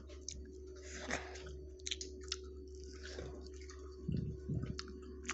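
Someone chewing a ketchup-dipped dino nugget: soft wet mouth clicks and squishing, over a steady low hum. A few low bumps come about four seconds in.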